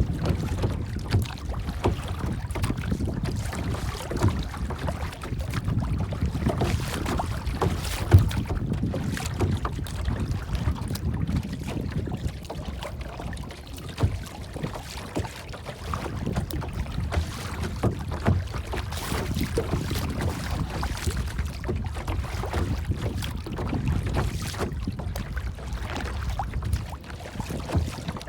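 Continuous rushing of wind and water with irregular low buffeting, and a sharp knock about eight seconds in.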